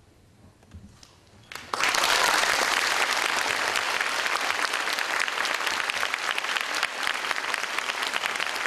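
A short hush, then audience applause breaks out about two seconds in and carries on steadily.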